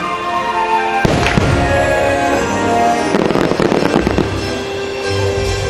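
Aerial fireworks going off over show music: a sudden burst of bangs and crackling about a second in, then another cluster of crackling bursts around three seconds in.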